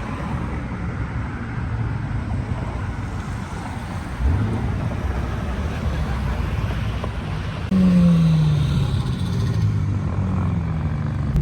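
Car engine running with a low rumble, growing louder about four seconds in, then a louder engine note falling in pitch about eight seconds in as it eases off.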